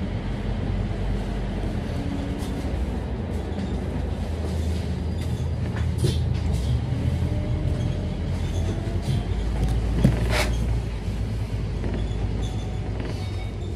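Scania K310UD double-decker bus running, its engine a steady low drone with faint pitched whines above it. Short rattles and knocks come through, the sharpest about ten seconds in.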